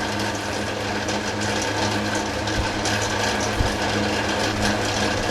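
Metal lathe running with a steady hum and hiss, the cutter taking a light pass to bring a scrap workpiece round.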